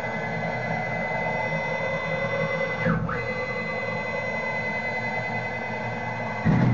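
Stepper motors of a Fehlmann Picomax 50 CNC coordinate table driving the X-axis at rapid traverse: a steady high whine over low grunting. The pitch dips briefly about three seconds in, and a louder low thump comes near the end, as the table changes direction. The grunting does not mean lost steps.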